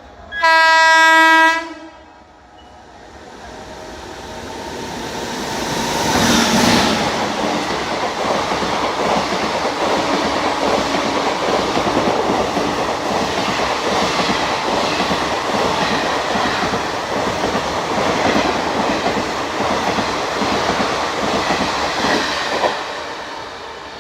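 A train horn sounds once for about a second and a half. A train then approaches and passes at speed, its wheels clattering over the rail joints for about fifteen seconds. The sound drops away sharply near the end.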